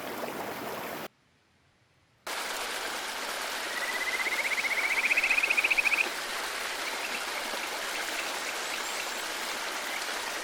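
Mountain stream flowing steadily, cut off for about a second shortly after the start and then resuming. From about four to six seconds in, a high pulsing trill rises in pitch over the water.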